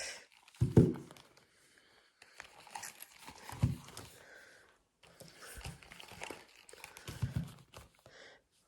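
Binders and their plastic packaging handled by hand: crinkling and rustling, with three soft thumps, the loudest about a second in.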